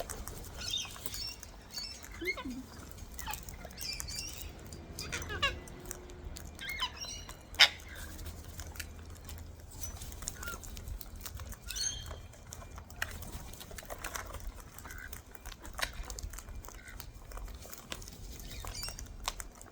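Wild cockatoos feeding: scattered crunching and clicking as they crack seed, with short high calls now and then and one sharp crack about seven and a half seconds in.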